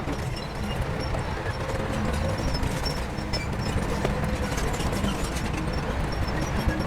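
Heavy diesel earthmoving machinery running steadily under load, with scattered metallic clanks and knocks through it.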